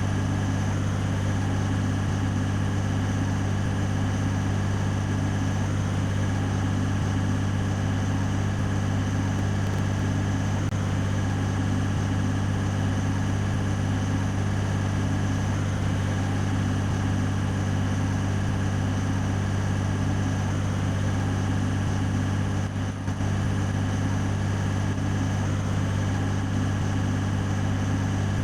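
Scania 113 truck's diesel engine running steadily, with an even, unchanging drone.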